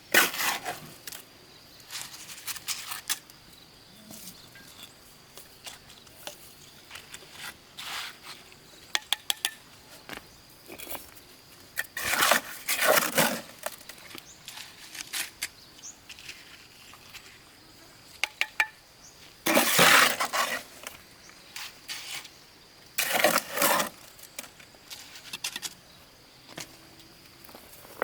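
Stones being handled and set down: irregular scrapes and knocks, the loudest about halfway through and again about two-thirds of the way in, over a faint steady high hum.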